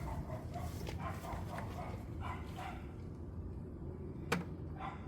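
A dog barking in the background: a run of short barks in the first few seconds, over a steady low rumble, with one sharp click a little over four seconds in.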